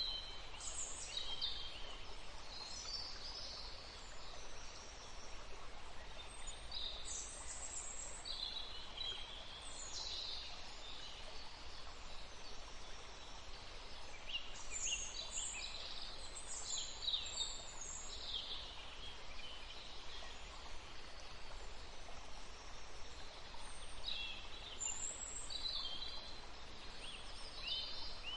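Songbirds chirping and singing in short high calls and trills, coming in clusters near the start, around 7 to 10 seconds in, from about 14 to 18 seconds and again near the end, over a steady background hiss.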